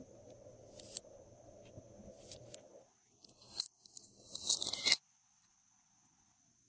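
Close-up crisp crackling and scraping with a few sharp clicks, from materials being handled for slime making. It is loudest about four to five seconds in, then cuts off suddenly.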